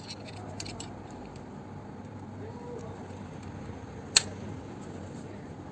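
A hand tool knocks once against metal with a single sharp click about four seconds in, with a few fainter clicks around it as a 5 mm Allen key is worked onto an oil-sump bolt. A steady low hum sits underneath.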